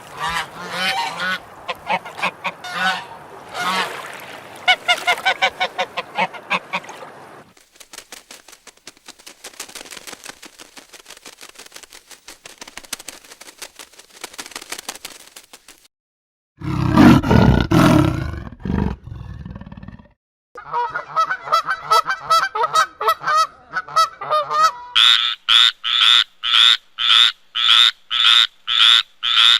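A run of animal calls in separate short clips: honking, quacking calls first, then a stretch of fast clicking, a brief loud low burst about seventeen seconds in, and finally rapid repeated calls at about two a second.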